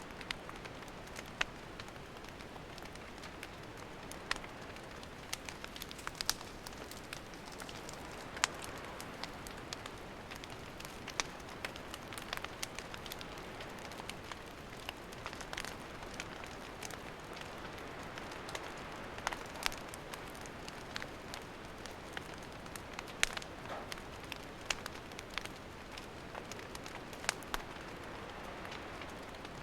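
Wood campfire burning: a steady soft hiss with frequent sharp crackles and pops at irregular moments.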